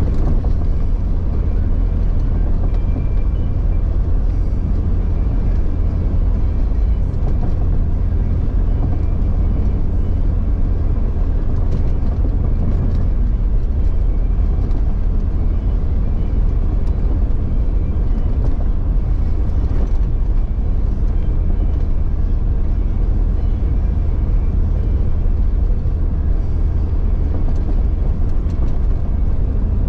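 Jeep Cherokee XJ driving off-road: a steady, loud low engine rumble, with a few faint knocks.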